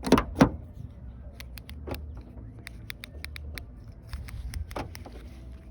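Clicks, taps and knocks of a car's rear door handle and latch being worked by hand, with two louder knocks right at the start and small scattered clicks after, over a low rumble.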